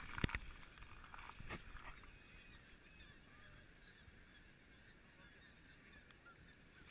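A couple of knocks in the first two seconds, then faint bird calls over a quiet, steady background.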